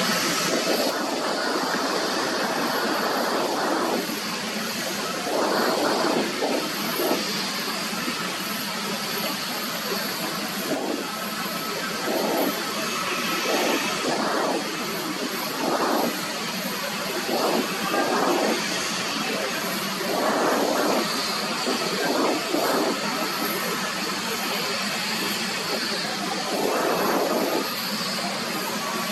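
Jet airliner engines running, a steady rush of noise with irregular louder swells every second or two.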